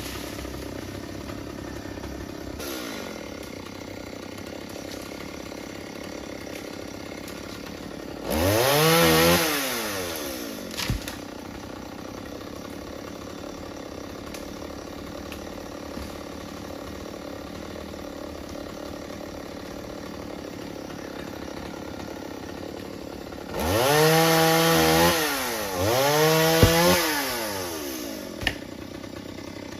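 A two-stroke chainsaw idling and briefly revved three times: once about eight seconds in, then twice in quick succession near the end. Each rev climbs in pitch and drops back to idle.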